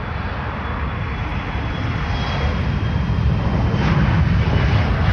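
Airliner's jet engines passing close, a broad roar that grows steadily louder, with a thin steady whine above it.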